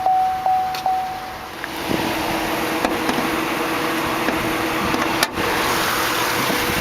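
A vehicle warning chime sounds for about a second and a half. Then comes the steady running hum of a 2008 Chevrolet Tahoe's 5.3-litre Vortec V8 idling, with one sharp knock about five seconds in.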